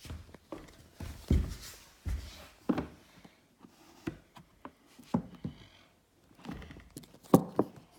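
Handling noise close to the microphone: a string of irregular thumps, knocks and light rustles as objects are moved about, several heavier thuds in the first three seconds and a quick pair of knocks near the end.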